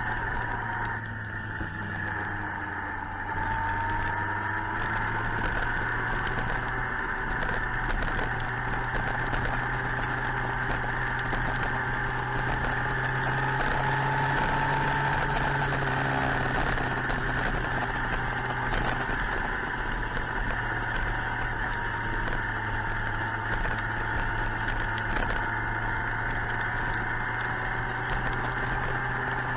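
Suzuki GSX-R 1000 inline-four engine running at a steady cruise, its pitch rising and falling slightly, with wind noise and a light crackling over it.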